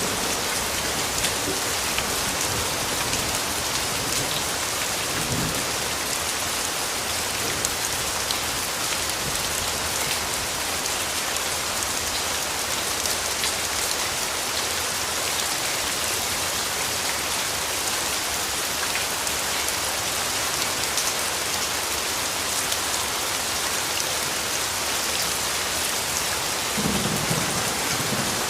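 Steady rainfall, a dense patter of drops. Low rumbles of distant thunder come in faintly near the start and again near the end.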